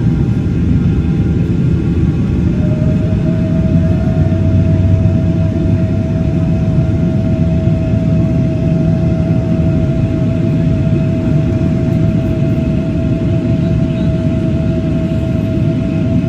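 Airliner's jet engines at takeoff power: a steady, heavy rumble, joined about three seconds in by a steady whine that holds to the end.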